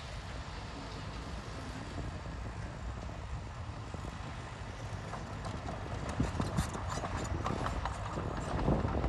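Bulldozer engine running with a low, steady rumble; about six seconds in, a run of irregular metallic clanks and knocks starts over it.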